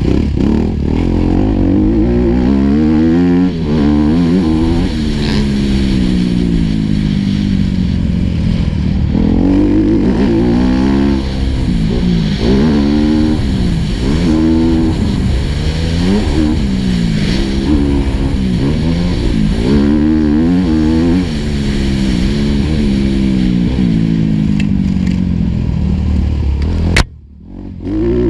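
Four-stroke motocross bike engine heard on board, revving up and dropping back again and again as the rider accelerates, shifts and brakes around the track. The sound drops out sharply for about a second near the end, then returns.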